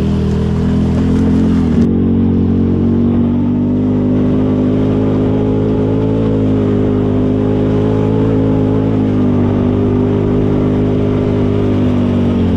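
ATV engine running under steady throttle while riding; its pitch climbs over the first couple of seconds, then holds even.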